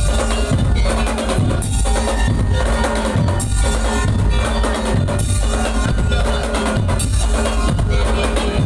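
Daul Madura music: a Madurese percussion ensemble playing a steady, driving beat with heavy bass drum and sharp snare-like strokes, loud throughout.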